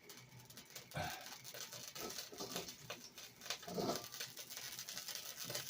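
Chicken slices pre-cooking in oil in a pan: a faint, steady crackle of small pops and spits.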